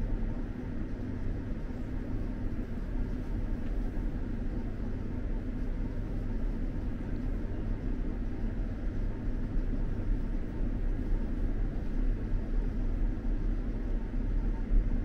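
Steady rumble of an SJ X2000 high-speed train running, heard from inside a passenger car, with a faint even hum over it.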